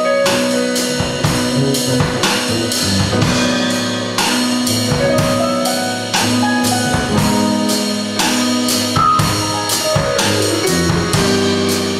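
Jazz trio playing: keyboard and bass holding sustained chords and lines over a drum kit keeping a steady cymbal beat of about two strokes a second.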